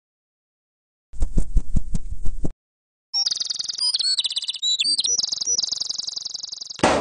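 A quick run of about eight knocks, then high bird chirping and tweeting with quick pitch glides for nearly four seconds. It ends suddenly in a short burst of noise.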